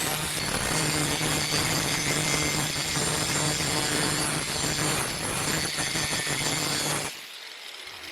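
Electric power tool running steadily at speed, a low motor hum under a dense abrasive hiss, that stops abruptly about seven seconds in; a quieter, uneven rubbing sound follows.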